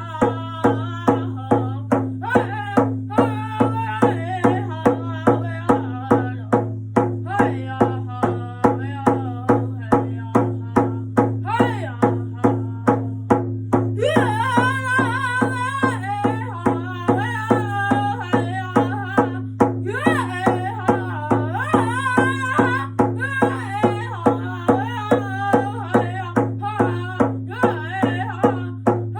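A young singer performing a First Nations drum song, the voice sliding through long held phrases over a steady drum beat of about two strikes a second.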